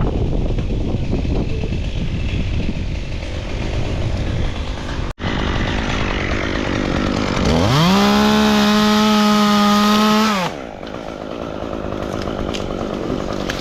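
Two-stroke chainsaw with heavy wind rumble on the microphone. About 7.5 s in the saw revs up to full throttle, holds a steady high pitch for about three seconds, then drops back.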